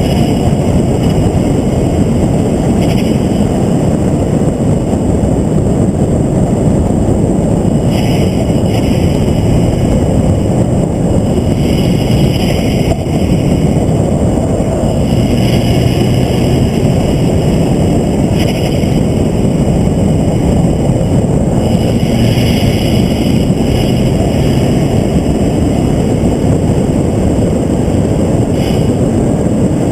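Vehicle driven at speed around a race circuit: a steady, loud rush of engine and wind noise with no clear engine note, and brief brighter hisses every few seconds.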